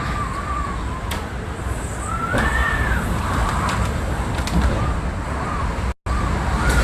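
Hurricane-force wind buffeting the microphone with a heavy low rumble, while a high, wavering howl rises and falls over it. A few sharp knocks come through.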